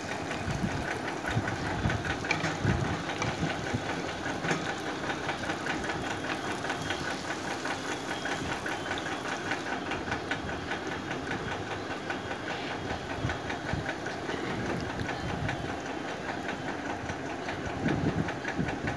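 Egg and vegetable batter frying in oil in a paniyaram pan: a steady sizzle with dense fine crackling.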